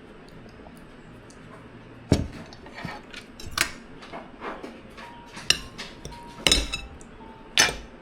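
Cutlery clinking and knocking against plates and bowls during a meal: quiet at first, then about seven separate clinks spread over the last six seconds, some with a brief ring.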